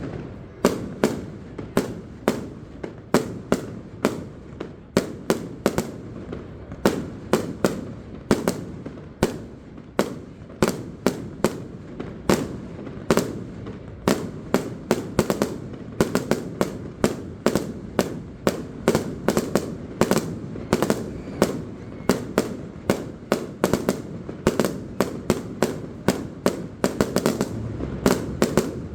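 Aerial fireworks display: a rapid, continuous barrage of bangs and booms, several a second, from shells and cakes bursting overhead, with their reports echoing beneath.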